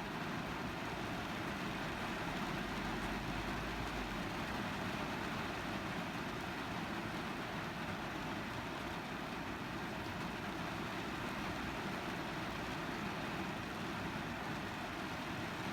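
Steady rain falling on a car's roof and windows, heard from inside the cabin as an even patter and hiss.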